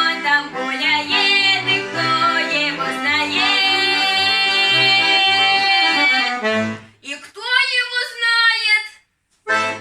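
A girl singing a Russian comic folk song in folk vocal style over instrumental accompaniment. The song closes on a long held note that ends about seven seconds in, followed by a few short sounds.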